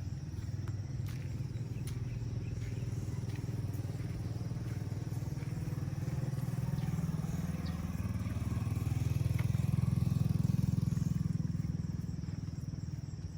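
A motorcycle engine running as it passes by: a low rumble that grows louder to a peak about ten seconds in, then fades away.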